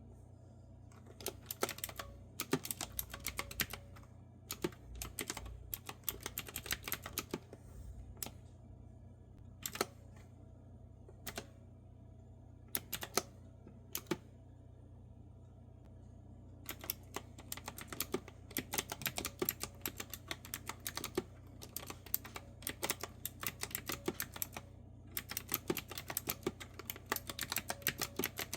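Clicky mechanical keyboard with round retro-style keys being typed on: bursts of rapid keystrokes, slowing to a few single key presses about ten to sixteen seconds in, then fast typing again.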